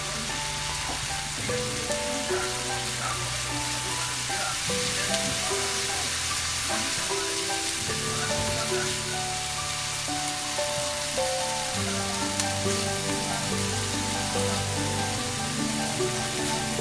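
Food frying in a pan with a steady sizzle, under background music with a moving melody and bass line.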